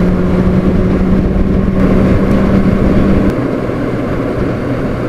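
Honda CBR600RR inline-four engine running at steady revs under heavy wind rush while riding. A little over three seconds in, the engine note drops to a lower pitch and the whole sound eases off, as the bike slows.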